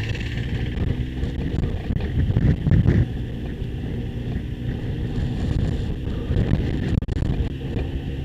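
Motorcycle engine running while riding, with wind noise on the microphone. It gets louder briefly about two to three seconds in.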